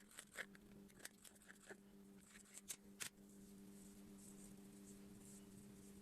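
Faint scattered clicks and light taps, two sharper ones close together about three seconds in, over a steady low electrical hum.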